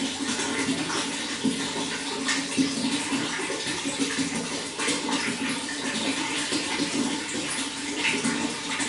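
Running water splashing steadily, with small irregular splashes throughout.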